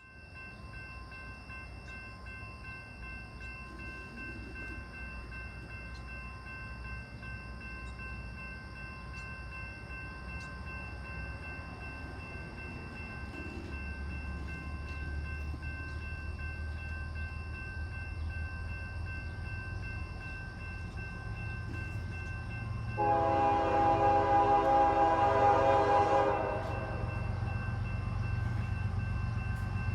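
A train approaching, its low rumble slowly growing louder, then the locomotive's horn sounding one long blast of about three and a half seconds, the loudest sound here, before the rumble carries on.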